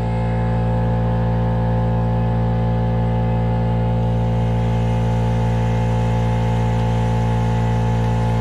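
Yanmar mini excavator's diesel engine running at a steady idle, an even, unchanging drone.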